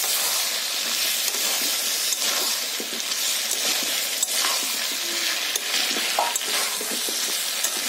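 Spice-coated hog plum pieces sizzling in hot mustard oil in a kadai, stirred with a metal spatula that now and then ticks against the pan. The sizzle is a steady hiss.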